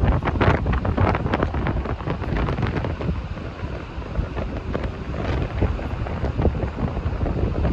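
Strong, gusty typhoon wind buffeting the microphone: a constant low rumble broken by rapid crackling gusts.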